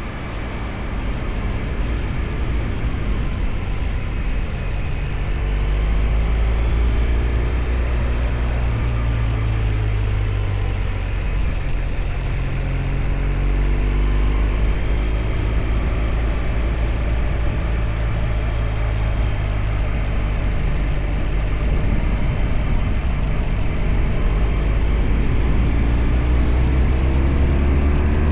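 BMW GS Adventure's boxer-twin engine running under way, its pitch rising and falling as the revs change.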